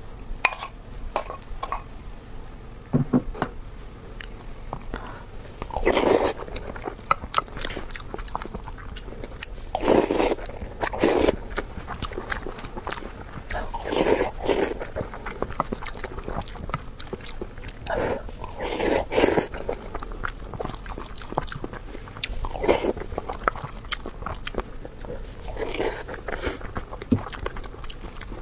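Close-miked chewing and mouth sounds of a person eating braised pork belly with tomato-and-egg rice: clusters of smacks and clicks about every four seconds.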